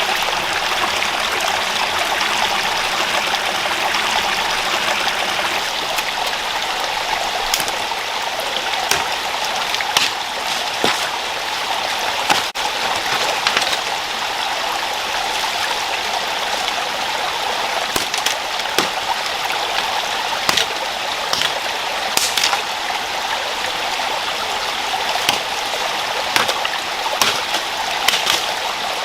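Rocky rainforest stream running steadily, with scattered sharp clicks and knocks over it.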